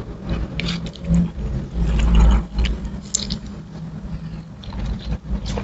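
Close-miked chewing and wet mouth sounds of a person eating rice and fried chicken by hand, with scattered small smacks and clicks, over a steady low hum and a low rumble that swells about two seconds in.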